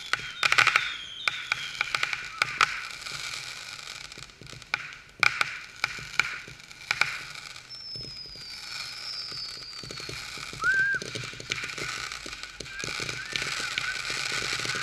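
Consumer fireworks going off: ground fountains hissing and crackling under a run of sharp pops and bangs, thickest in the first seven seconds. A high whistle falls in pitch about eight seconds in.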